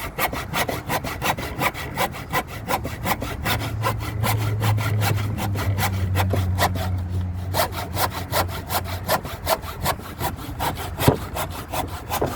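Hand saw cutting through timber in quick, even strokes, about four a second. A steady low hum comes in for several seconds in the middle.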